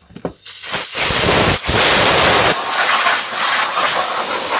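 Compressed air hissing in long blasts, blowing dirt out of a dirty mechanism, with short breaks between blasts.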